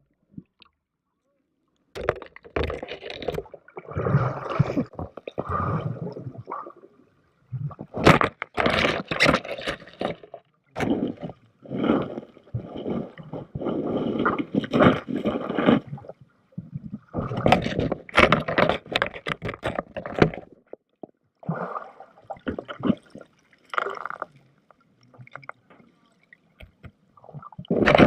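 Water gurgling and sloshing over the microphone of a camera submerged as it sinks, in irregular bursts of muffled noise. The bursts begin about two seconds in, after near silence.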